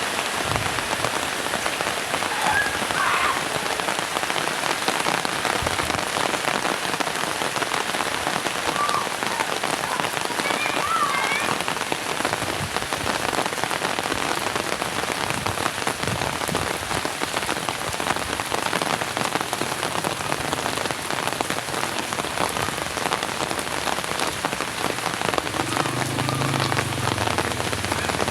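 Heavy rain falling steadily, a dense hiss of drops pattering on surfaces. A low rumble comes in near the end.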